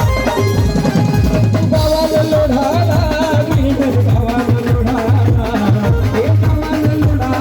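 Live orchestra music over a loud sound system: a heavy, steady drum beat, with a wavering melody line coming in about a second and a half in.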